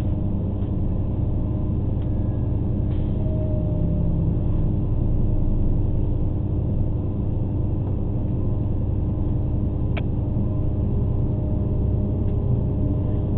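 Steady low rumble of a diesel regional train heard from inside the carriage as it slows into a station, with faint tonal ringing over it and a single click near the end.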